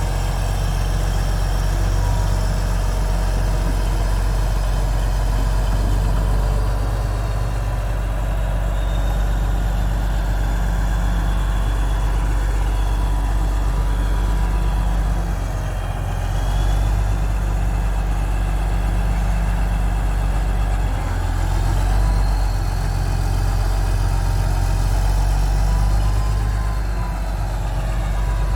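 Large diesel engine of heavy earthmoving equipment running steadily near idle, its pitch drifting up and down slightly a few times.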